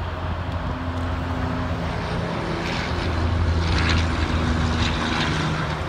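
Freight train of autorack cars rolling slowly past: a steady low rumble and drone from the wheels on the rails, with some light rattling from the cars in the middle.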